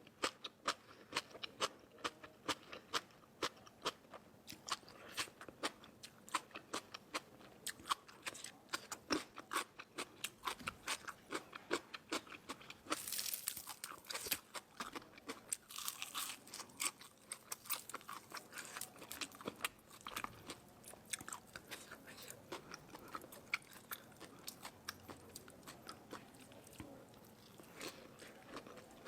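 Close-miked crunching and chewing of crisp food, a steady run of sharp crackly bites and chews several times a second, with a louder crackly stretch about halfway through.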